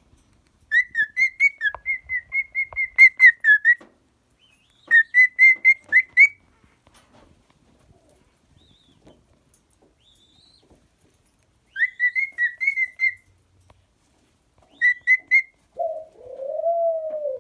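Cockatiel calling in four bursts of rapid, warbling whistled chirps, the first lasting about three seconds. A lower, drawn-out tone follows near the end.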